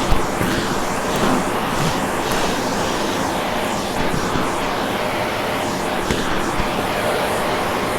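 Vacuum cleaner running steadily, its motor and airflow a loud, even rush with a faint steady whine.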